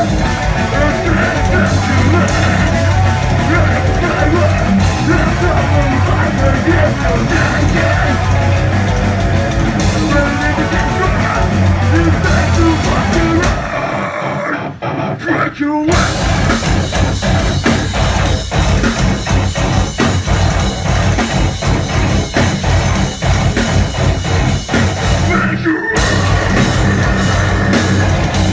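Live heavy rock band playing at full volume. About halfway through, the drums and low end drop out for around two seconds, then the full band comes back in.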